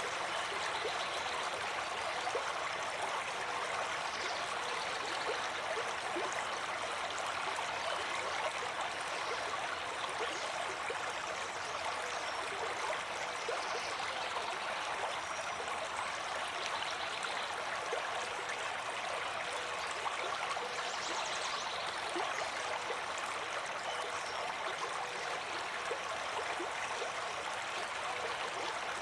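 Water of a stream flowing steadily, an even rush with fine trickling and gurgling detail and no breaks.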